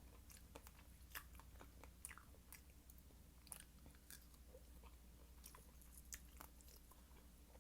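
Faint chewing of fresh fruit, with many small wet mouth clicks scattered throughout.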